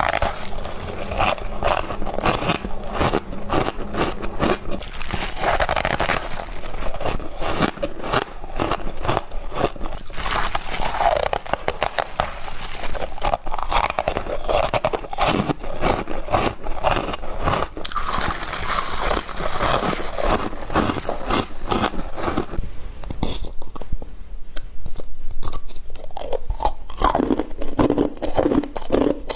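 Humidifier-grown freezer frost being bitten and chewed: dense, irregular crunching throughout. In the last several seconds it turns duller and lower, with the crisp high crackle gone.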